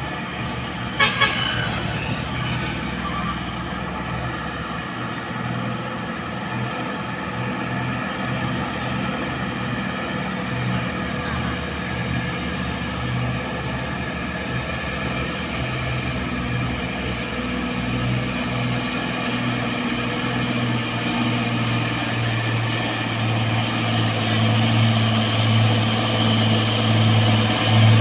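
Heavy truck's diesel engine running steadily, growing louder near the end. A short horn toot sounds about a second in.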